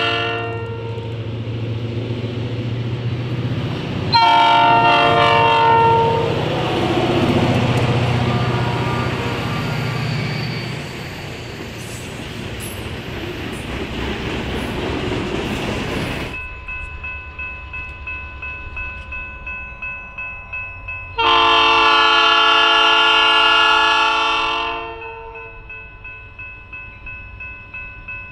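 A diesel freight locomotive's horn blows a short blast about four seconds in; then the locomotives and hopper cars rumble past with wheels clacking on the rails. After a sudden cut a grade-crossing bell rings steadily, and about twenty-one seconds in a long horn blast sounds from the approaching train.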